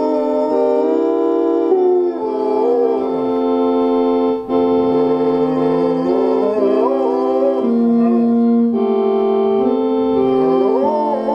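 A dog howling along to a hymn played on an organ. Its howls rise and fall in pitch over the steady held chords, several times through.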